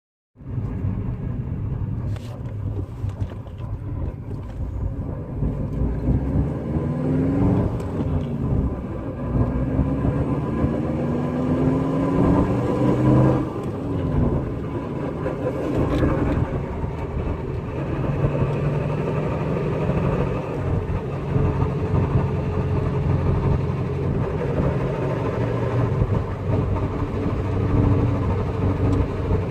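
2002 Subaru WRX on the move: its turbocharged flat-four engine rises and falls in pitch through the first half, then holds steadier. Underneath runs a front-end drivetrain noise from the front right wheel that is absent when the car is stopped; the owner suspects the axle, differential or transmission.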